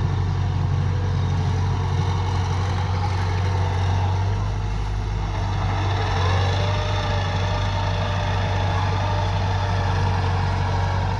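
Kubota DC-105X combine harvester's diesel engine and threshing machinery running in a steady drone while harvesting rice, the low hum shifting slightly about four seconds in.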